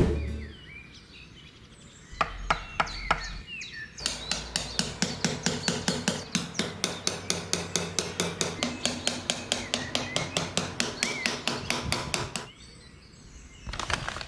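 Small hammer tapping on wood: a few separate knocks, then a long, even run of quick taps, about five a second. Faint bird chirps sound in the background.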